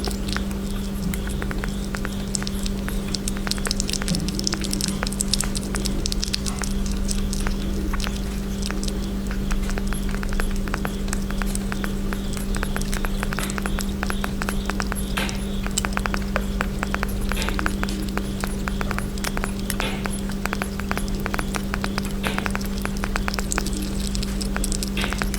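A small pet chewing and crunching a stick-shaped snack in quick, dense clicks, over a steady low hum.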